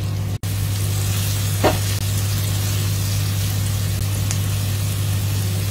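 Egg and weaver ant egg omelette sizzling in a frying pan, a steady hiss over a steady low hum, with one short sound about one and a half seconds in.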